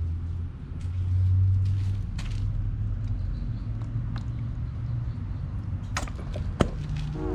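A vehicle engine running with a steady low rumble, with a few sharp clicks about six seconds in.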